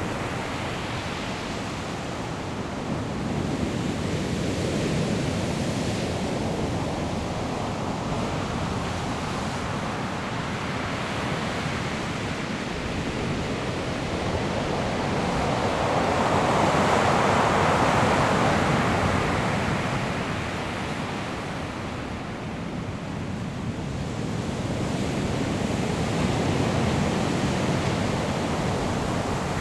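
Surf breaking on a pebble shore in a continuous rush that swells and ebbs, loudest at one big swell a little past the middle, with wind on the microphone.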